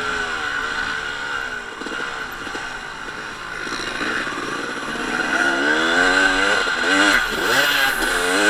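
Two-stroke motocross motorcycle engine, likely the Honda CR250, revving up and down as it is ridden, its pitch climbing and dropping again and again, with sharper rising revs in the second half.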